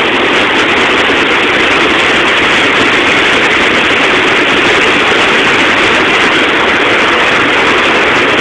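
Loud, steady rush of floodwater: river runoff pouring across a road during a hurricane flood.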